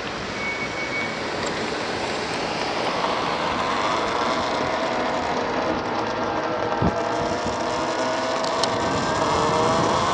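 Wind rushing over the microphone of a rider on an MX Sting electric motor scooter, with road noise slowly growing louder. In the second half, a whine of several tones rises steadily in pitch.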